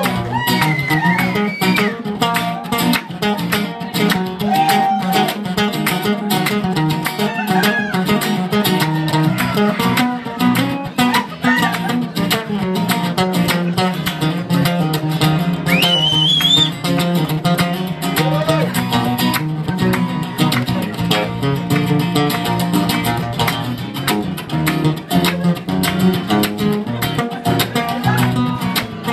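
Acoustic guitar strummed with a steady rhythm, a few brief voices shouting or singing over it.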